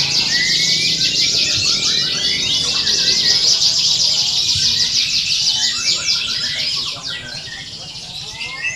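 Many domestic canaries singing at once in a dense chorus of rapid, overlapping trills and chirps, over a low background murmur of voices.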